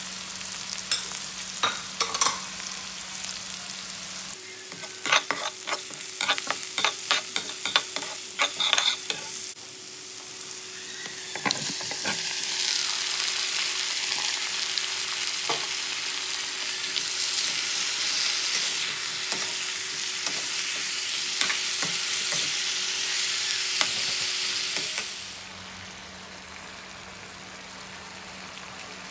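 Onions and garlic sizzling in hot oil in a wok, then a stretch of rapid clicks and scrapes as the pan is stirred. Chicken pieces frying in the wok follow with a loud, steady sizzle, which falls to a much quieter hiss near the end.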